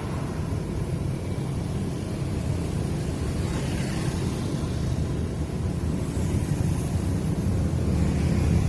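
A steady low rumble that grows a little louder near the end.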